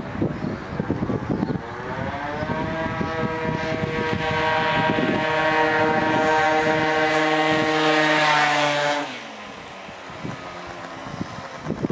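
Gilera DNA50 moped's small two-stroke engine revving. It runs roughly for about two seconds, climbs in pitch, holds a steady high note for about five seconds, then the throttle is let off and it falls back to a quieter, rough running.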